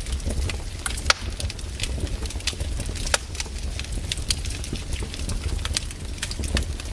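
Wood campfire crackling, with frequent sharp pops and snaps over a steady low rumble; the loudest pops come about a second in and about three seconds in.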